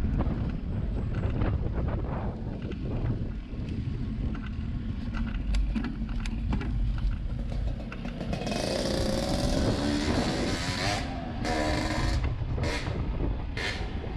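Steady low road and wind rumble, with a motor vehicle passing about eight seconds in, its engine pitch gliding as it goes by, then a few short loud bursts of noise near the end.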